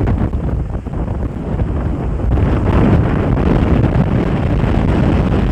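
Strong wind buffeting the microphone in a steady low rumble, getting a little stronger about halfway through.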